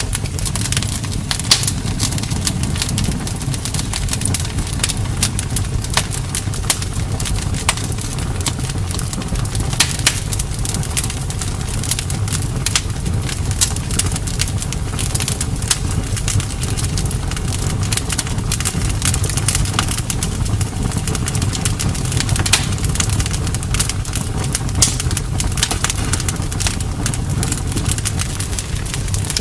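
Campfire burning, with frequent irregular crackles and pops of burning wood over a steady low rumble.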